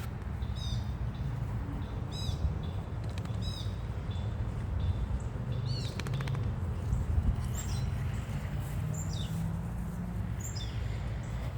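Small birds chirping: short, quick, falling chirps repeating roughly once a second, over a steady low rumble.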